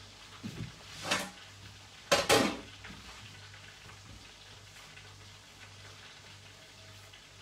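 Food sizzling in a cooking pot while a spoon stirs it, with two louder scrapes of the spoon against the pot, about a second in and again around two seconds in.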